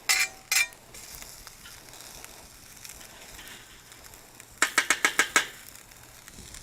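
Rice and vegetables sizzling quietly on a hot griddle, broken by sharp clacks of a metal utensil on the griddle: two at the start and a quick run of about eight a little past the middle.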